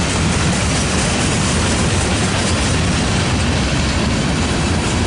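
Freight train cars (tank cars, a boxcar and covered hoppers) rolling past: a steady rumble and rush of steel wheels on rail.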